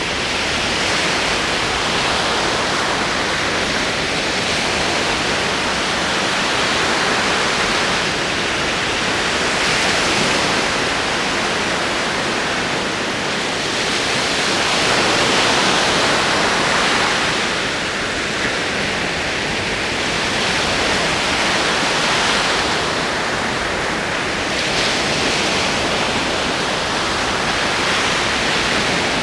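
Ocean waves rolling in: a steady wash of surf that swells and eases every few seconds.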